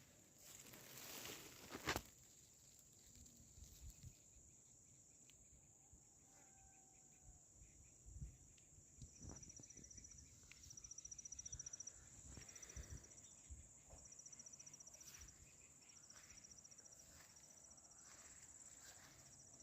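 Faint insects calling: a steady high-pitched hum, joined from about ten seconds in by repeated short, fast-pulsed high chirps like crickets. A few soft thumps and rustles sound around the middle.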